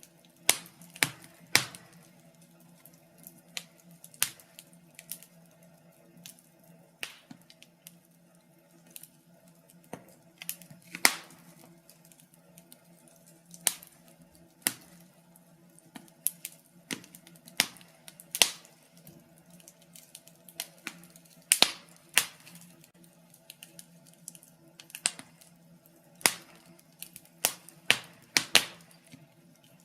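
Wood fire crackling in a fireplace: irregular sharp pops and snaps, one every second or two, some louder than others, over a faint steady hum.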